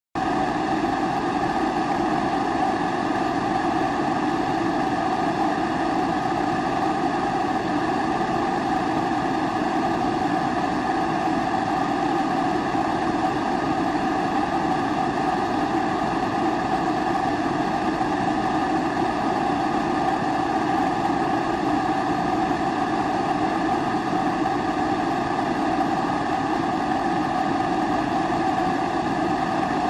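Pressurized kerosene stove (a Primus-type 'babour') burner, burning with a steady, unbroken rushing sound and a hollow hum underneath.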